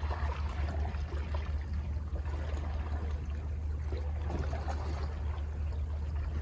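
Calm sea waves washing and trickling, over a steady low rumble.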